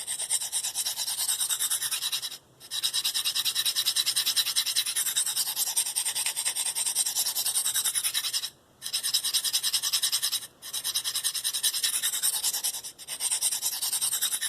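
A steel knife edge, an S30V Spyderco Paramilitary 2, being stroked rapidly over a coarse 45-micron DMT Diafold diamond plate, a fast, scratchy grinding rasp. The strokes come in several runs broken by brief pauses. This is the coarse-grit stage, grinding a rough, dull edge down to a fresh bevel.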